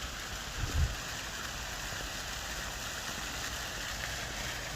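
A steady, even outdoor hiss, with a brief low sound just under a second in.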